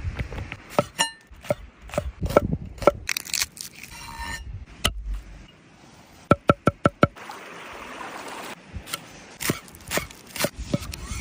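Food-preparation sounds: a knife chopping and knocking on a wooden board, with a quick run of about six chops in the middle, followed by a short stretch of hissing.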